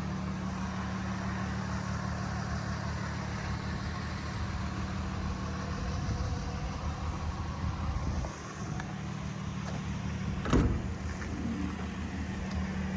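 A steady low engine hum, like a vehicle idling close by, with a single knock about ten and a half seconds in.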